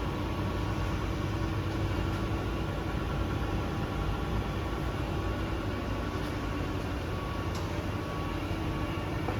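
Grisetti RU 2000 hydraulic cylindrical grinding machine running, a steady, even hum from its motors and hydraulic power pack with no knocking or rattling: the machine is running smoothly.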